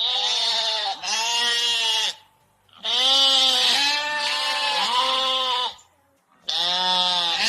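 A bleating farm animal calls six times in three groups of two, three and one; each bleat lasts about a second and wavers in pitch.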